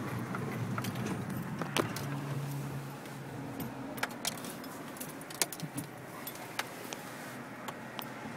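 Car cabin noise while driving slowly: a steady low rumble of engine and road, with scattered light clicks and rattles inside the car.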